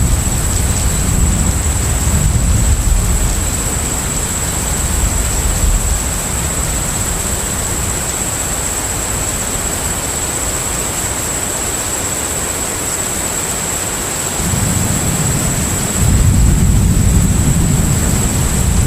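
Container ship at sea: a steady rush of wind and water noise over a deep engine rumble. The rumble eases for several seconds, then swells back near the end. A thin high whine runs steadily throughout.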